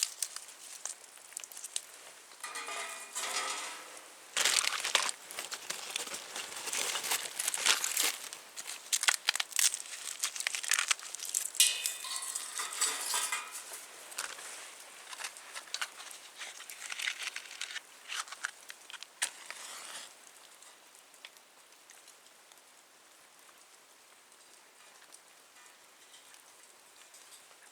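Crinkling, crunching and clicking as a wood fire is being lit in a small camp stove, busy for the first twenty seconds or so and then settling to faint scattered crackles.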